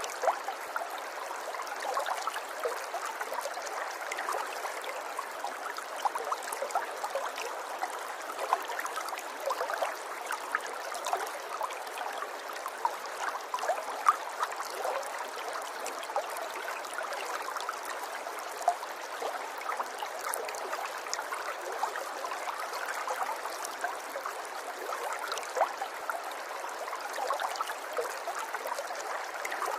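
River water flowing and babbling steadily, with many small splashes and trickles scattered through it.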